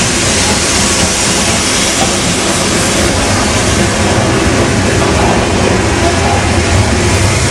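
Train running past or close by: a steady loud rushing noise with a strong hiss and a low rumble underneath.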